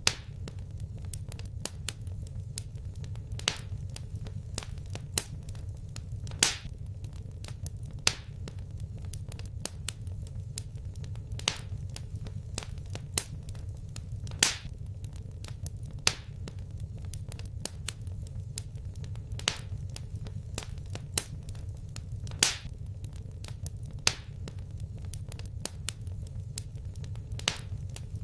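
Wood fire crackling in a fireplace: a steady low rumble under many small crackles, with a louder sharp pop every couple of seconds.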